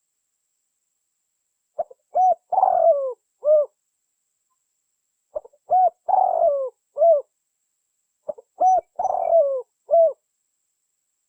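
Spotted dove cooing its lure call: three phrases a few seconds apart, each a couple of short coos followed by a longer coo that falls in pitch.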